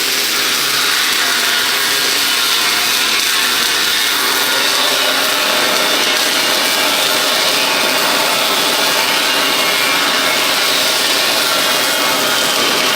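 Semi-automatic wire-feed welding arc from a Power Wave S350 welder, a steady frying crackle.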